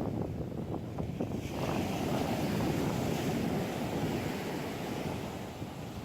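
Ocean surf: a wave breaks and washes in with a rising hiss about a second and a half in, easing off near the end, over wind buffeting the microphone.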